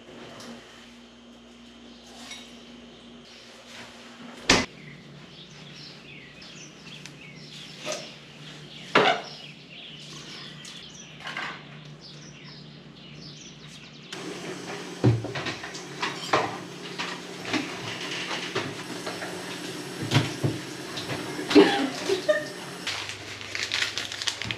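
Kitchen clatter of dishes, cutlery and cupboards: scattered clinks and knocks, one sharp knock about four and a half seconds in, then busier clattering over a louder background from about halfway through.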